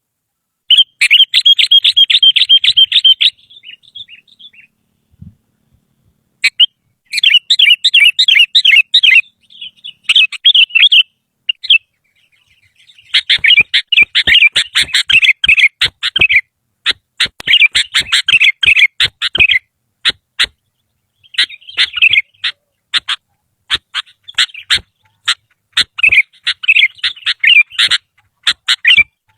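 Sooty-headed bulbul (kutilang) singing in loud, fast chattering phrases of a few seconds each, with short pauses between. From about halfway, sharp clicking notes are scattered among the phrases.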